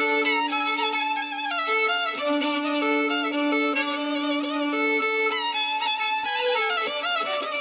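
Fiddle playing a traditional Ukrainian folk melody, the tune moving over a held low drone note.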